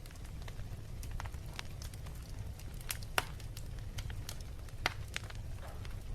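Wood fire burning in a fireplace: a steady low rumble with scattered sharp crackles and pops, the loudest about three seconds in and again near five seconds.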